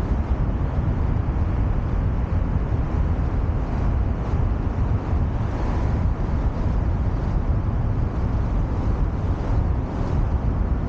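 Steady low rumble of wind buffeting the camera's microphone, mixed with road and traffic noise from a city street.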